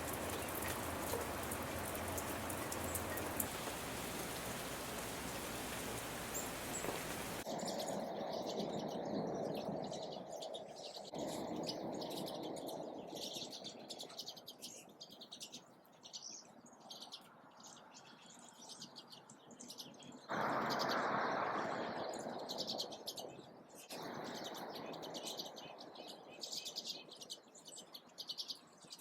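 Small wild birds chirping around a feeder over a steady background hiss. The hiss is strong for the first seven seconds or so, drops abruptly, then swells again for a few seconds around twenty seconds in.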